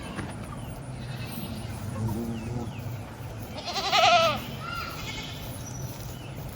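A goat bleating: one loud, wavering call about four seconds in, after a fainter, lower call about two seconds in.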